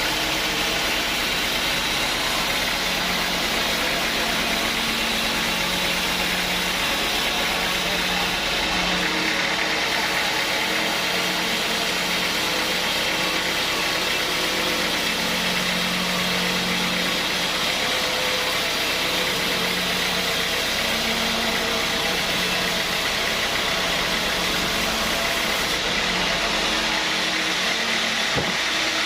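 Sawmill saw machinery running steadily: a constant mechanical drone with low hum tones that shift and come and go.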